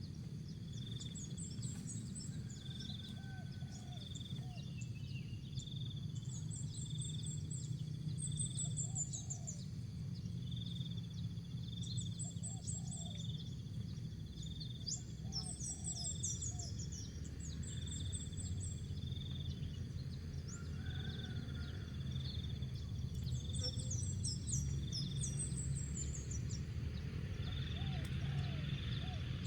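Faint low cooing of a spotted dove, heard now and then under a steady low rumble. Over it, another small bird sings high, quick descending chirp phrases every few seconds, and a short high note repeats about once a second.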